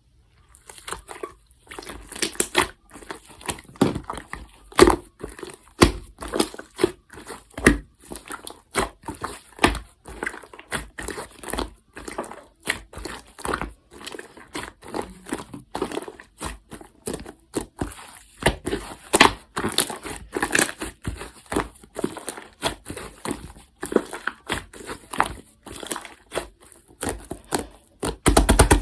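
Pink slime being squeezed, stretched and pressed by hand, giving irregular crackling pops and clicks, several a second.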